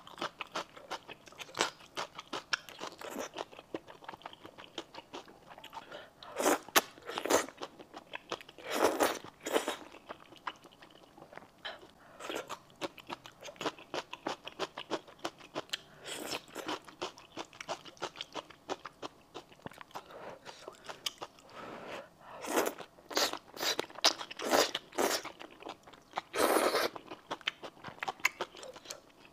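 A person chewing and crunching mouthfuls of noodles and celery stalks close to the microphone: a steady run of small crisp clicks, with louder bursts every few seconds.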